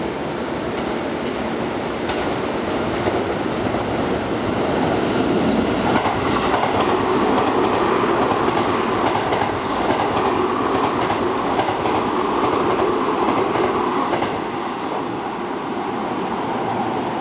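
Seibu 20000 series electric train running through the station at speed without stopping. Its wheels clatter over the rail joints in quick clicks, loudest through the middle, easing off a little after about 14 seconds.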